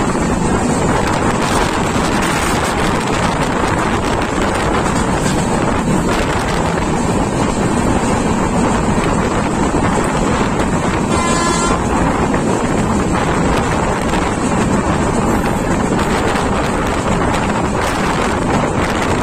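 Loud wind buffeting the microphone over the steady running noise of a moving train, with a brief high-pitched tone about eleven seconds in.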